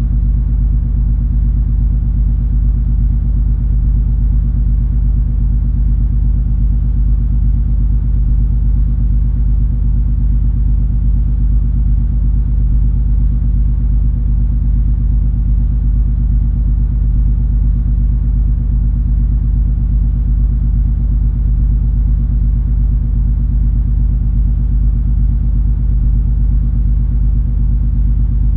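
Cruise ferry MS Color Magic underway: a steady, loud low rumble of the ship's engines and hull, with a constant deep hum.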